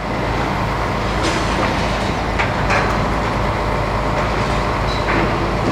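A MAN truck's diesel engine running steadily under the Palfinger loader crane as it works, with a few sharp metallic clanks and squeaks over it.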